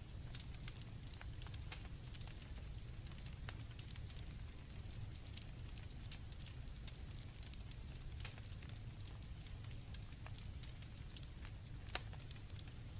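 Night campfire crackling, with irregular sharp pops over a low steady rumble, a louder pop about twelve seconds in, while crickets trill steadily at a high pitch.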